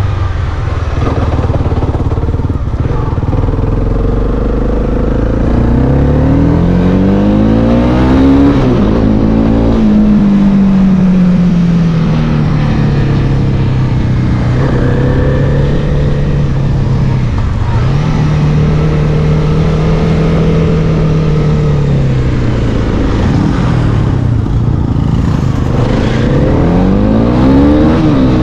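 Honda CB300R's single-cylinder engine pulling the bike along: the revs climb and drop sharply at an upshift about a third of the way in, then hold steady at cruising speed, ease off, and climb hard again near the end.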